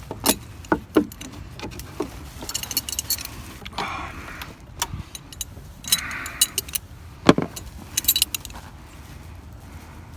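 Sharp metallic clicks, knocks and jingling of small hardware as dresser knobs and pulls are worked off with a screwdriver, with two bursts of metal clinking about three seconds in and again near the end. A steady low rumble runs beneath.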